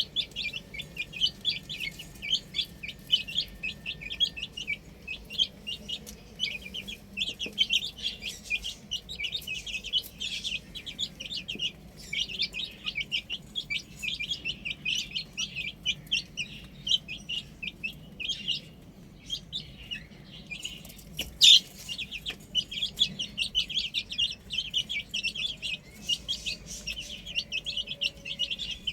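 Baby chicks peeping continuously: many short, high, overlapping peeps, with a brief lull about two-thirds of the way through and one louder peep just after it.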